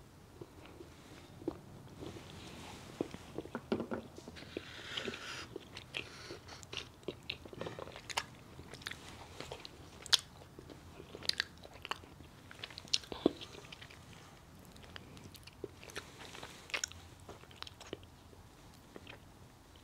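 A person chewing and biting liquor-filled chocolates, with many scattered short, sharp mouth clicks and smacks.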